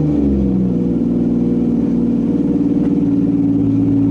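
Toyota 2JZ-GTE turbocharged straight-six of a Nissan 240SX drift car idling, its revs easing down in the first half-second and then holding steady.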